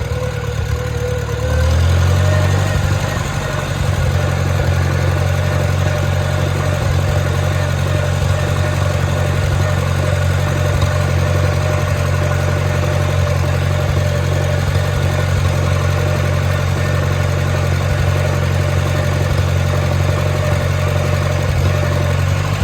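1954 Farmall Super C's four-cylinder gasoline engine running steadily, its note stepping up and getting louder about two seconds in, then holding even.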